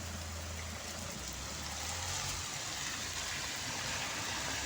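Steady rain falling, an even hiss, with a low hum underneath that fades out about two and a half seconds in.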